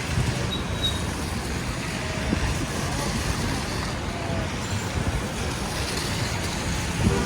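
City street ambience: steady traffic noise from passing vehicles, with a low thump near the end.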